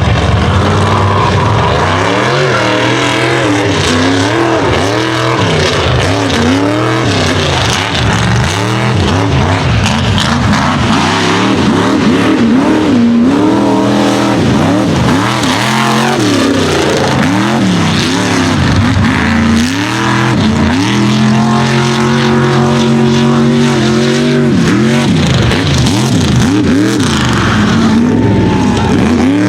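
Unlimited-class mega truck's engine under hard throttle, revving up and down repeatedly, then held at a steadier high pitch for the last several seconds.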